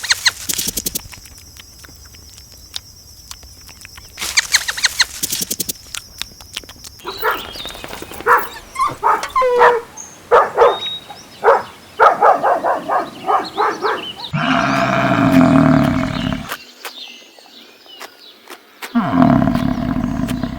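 A run of different animal calls one after another. It begins with bursts of rapid clicking or rattling, then many short pitched calls, then two long, loud, low calls, one in the second half and one near the end.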